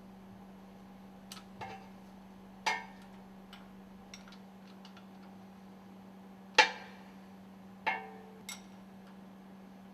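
Scattered sharp clinks and knocks of bolts and tools being handled as the bolts are taken out of a piston-rod stuffing box, about eight in all with the loudest about two-thirds of the way through, over a steady low hum.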